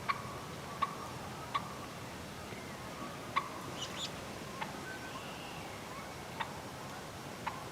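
Scattered sharp ticks, about one a second at irregular spacing, like raindrops tapping on a hunting blind, over faint distant bird calls.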